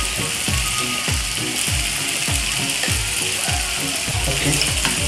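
A fast, even ratcheting tick, about three strokes a second, each a short low knock, running over the steady sizzle of chicken, onion and tomato frying in a pan.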